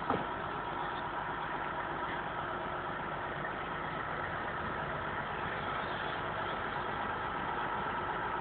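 Engine running steadily at an even pitch, with a constant high whine over it. There is a short sharp click right at the start.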